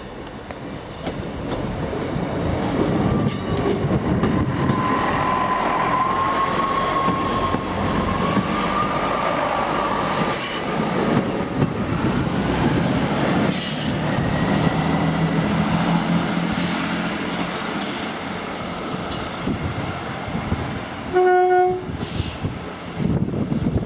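Diesel passenger train running past on the line, with a thin wheel squeal for a few seconds early on. A short horn blast sounds about 21 seconds in.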